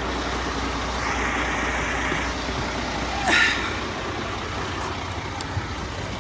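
Semi-truck's engine idling with a steady low hum, which eases off about four seconds in. A short hiss a little over three seconds in is the loudest moment.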